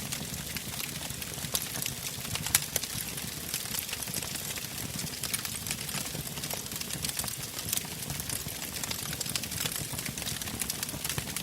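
Wood fire burning in a fireplace, crackling with frequent sharp pops and snaps over a low, steady sound of the flames, with one louder pop about two and a half seconds in.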